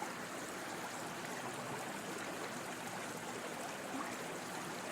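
Steady flowing stream: running water trickling and babbling at an even level as a background nature sound.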